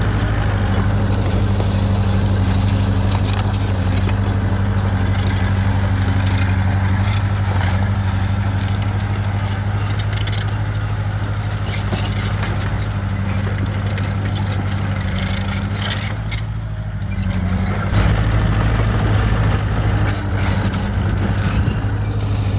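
Bulldozer's diesel engine running steadily under load, with frequent metallic clanking and rattling from its steel tracks and blade. The engine eases off briefly about two-thirds of the way through, then comes back up.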